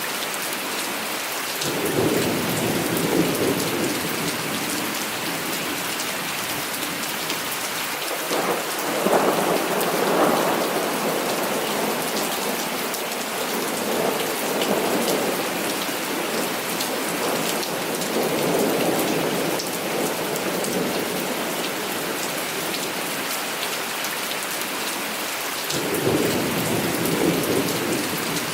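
Heavy rain falling steadily, with rolls of thunder rumbling in several times: a roll about two seconds in, a louder one around nine seconds, further rumbles near fourteen and eighteen seconds, and another near the end.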